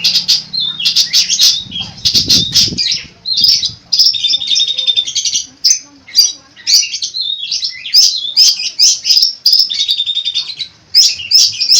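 Long-tailed shrike (cendet) singing non-stop in a varied song of rapid high chirps, buzzy phrases and fast trills, mixed with mimicked calls of other birds.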